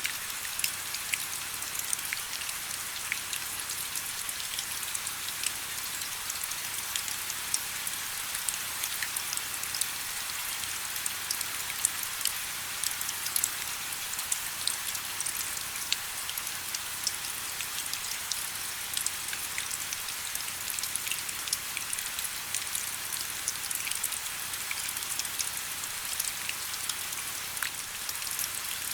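Steady rain falling, with many individual drops heard as small sharp taps over an even hiss.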